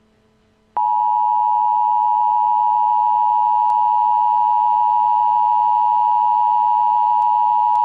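Emergency Alert System attention signal: a loud, harsh, steady electronic tone of two close pitches sounding together, starting about a second in and held without a break, announcing an emergency broadcast warning.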